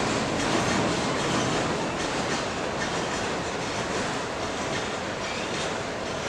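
Railroad cars rolling past on the track: a steady rumble of steel wheels on rail with faint clicks as wheels cross rail joints.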